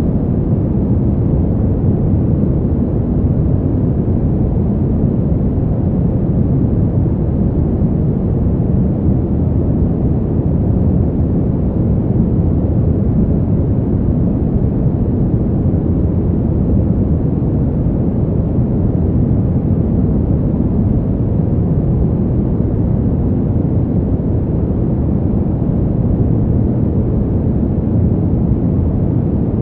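Steady winter wind noise: a dark, even hiss with most of its weight in the low range and little treble, never rising or gusting.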